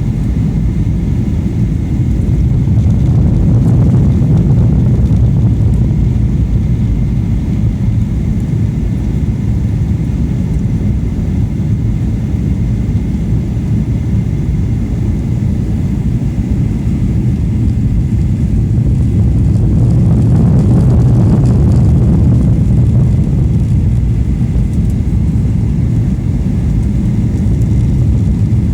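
Airliner cabin noise during the approach to landing: a steady low rumble of jet engines and airflow, swelling slightly about three seconds in and again around twenty seconds in.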